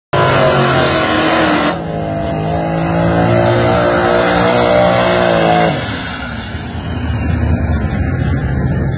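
Drag-car V8 engines at high revs: a steady pitched engine note that climbs slightly. A little under six seconds in, this switches abruptly to a rougher, noisier low sound from a turbocharged 5.3 LS V8 in a third-generation Camaro doing a smoky burnout.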